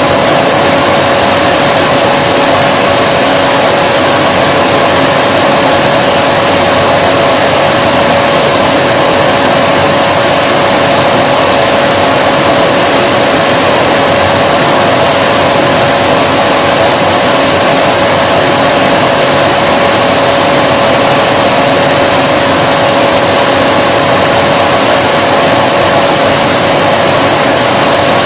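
Vacuum cleaner running steadily: a continuous loud rushing of air with a steady motor whine.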